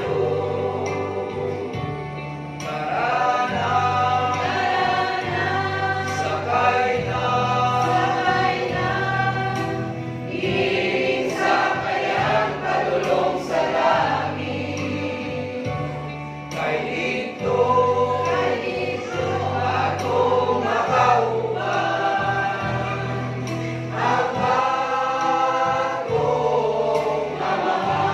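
Church choir singing a gospel song over an accompaniment with a steady bass line.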